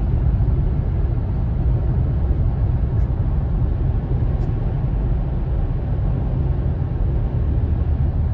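Vehicle driving along the road: a steady low rumble of engine and road noise, with a couple of faint ticks partway through.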